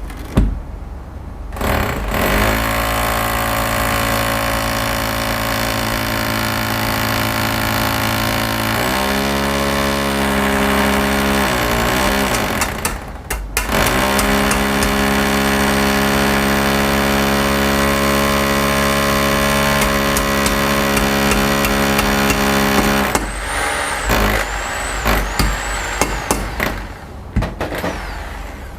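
A motor-driven machine running with a steady pitched hum. Its pitch dips and wavers for a few seconds around the middle, and it breaks off briefly just after that. It stops a few seconds before the end, leaving a few high whistling glides.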